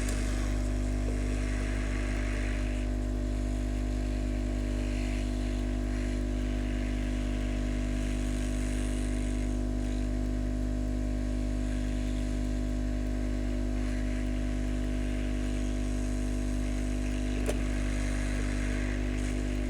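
Steady hum and hiss of an SMD hot air rework station's blower and fume extractor running while heat is played around a chip to desolder it. A single faint click sounds near the end.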